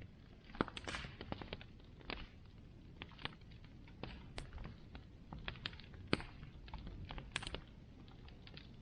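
Bonfire crackling, with irregular sharp pops of burning wood and a brief hiss about a second in.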